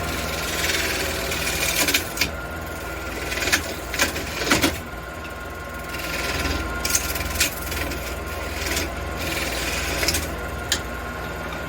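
Wood lathe running with a steady hum while the spinning aromatic red cedar piece is worked in repeated hissing passes lasting a second or two each, with a few sharp ticks in between.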